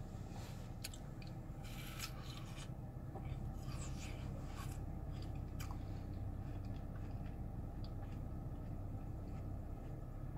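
Chewing watermelon, soft wet mouth clicks scattered through, over a steady low hum in a car's cabin.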